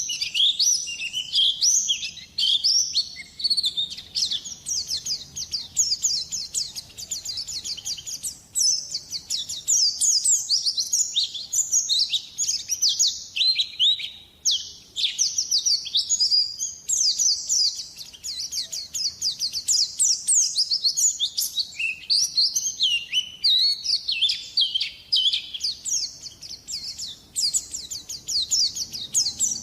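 White-eye (pleci) singing a long, fast stream of high twittering notes almost without a break, with one short pause about halfway through.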